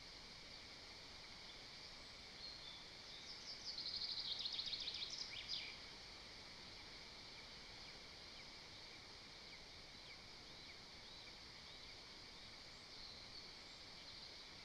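A small songbird sings one short, rapid trill of high notes about four seconds in, over a steady high background hiss of forest ambience. A few faint chirps follow later.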